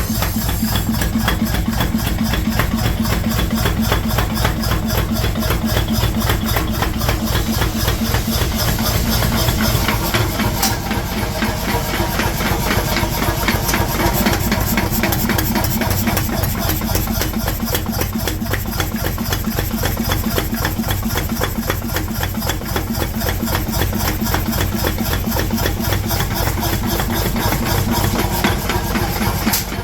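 Metalworking machinery running continuously, with a fast, even beat of mechanical strokes.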